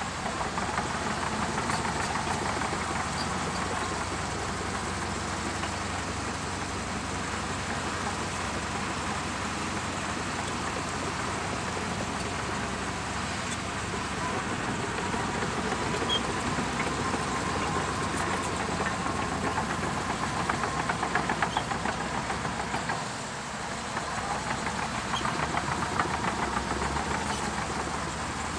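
Shantui DH17C2 bulldozer's diesel engine running steadily at work, with a short dip in loudness late on.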